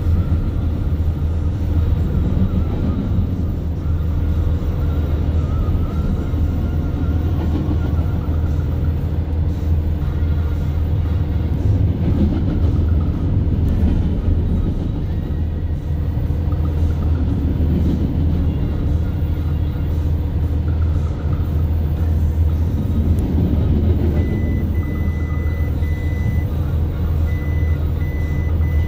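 A double-stack container train's well cars roll past close by, a steady loud rumble and clatter of steel wheels on the rails. Near the end a thin high-pitched tone comes and goes several times.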